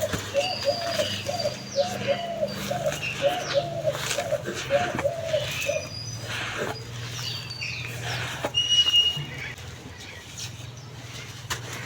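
Dry sand and clay crumbling, with scattered sharp crackles and small impacts. Behind it a bird coos in a quick repeated run for about the first five seconds, and other birds give short high chirps.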